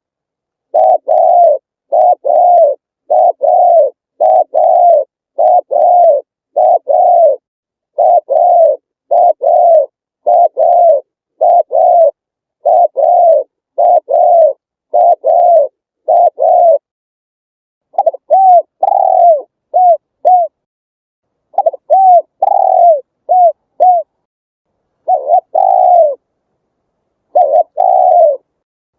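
Spotted dove cooing: a long run of short coo notes, each arching and falling at the end, repeated at a steady pace of about one a second. The series breaks off briefly three times, and the notes after the first break come in quicker, shorter clusters.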